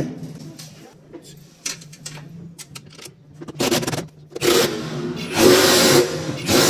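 Tool work on a washing machine: a steady low hum, then rough scraping bursts in the second half, loudest about two thirds of the way through.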